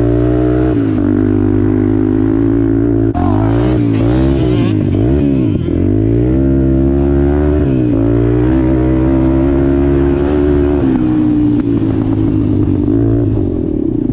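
Off-road vehicle engine running under riding, loud and close. It holds steady revs, then rises and falls quickly several times about three to six seconds in, and settles to steady revs again.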